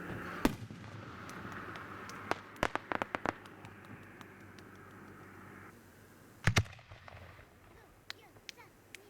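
Aerial fireworks bursting: one loud bang about half a second in, a quick run of sharp cracks around the three-second mark, then a heavy double boom later on, followed by a few faint pops.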